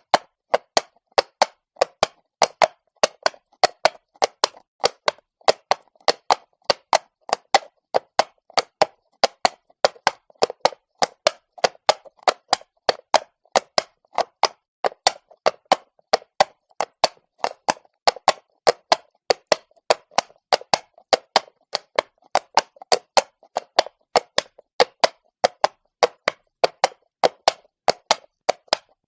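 Horse hooves walking on stone: a steady, even clip-clop of sharp hoof strikes, about three to four a second.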